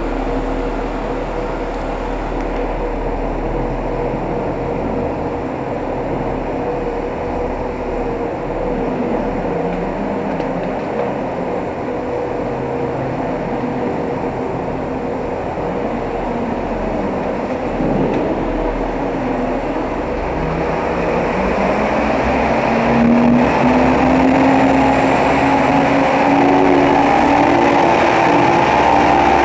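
PAUS PMKT 8000 underground truck driving through a tunnel: steady engine and rolling noise. The engine note rises and grows louder about two-thirds of the way through.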